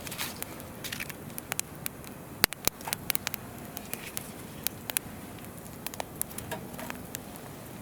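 Wood campfire crackling, with irregular sharp pops, the loudest about two and a half seconds in, over the steady rush of a flowing river.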